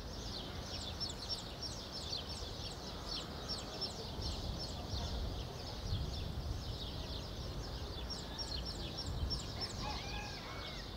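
Birds chirping: a dense, steady chatter of short high chirps, several a second, over a low rumble. A couple of lower, arching calls come in near the end.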